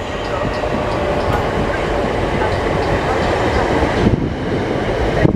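Electric multiple-unit train passing close by along the platform, a steady rumble of wheels and running gear.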